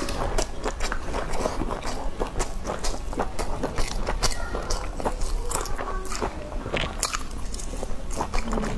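Close-miked chewing and biting of grilled skewered sausages and meat, with a dense run of irregular wet mouth clicks.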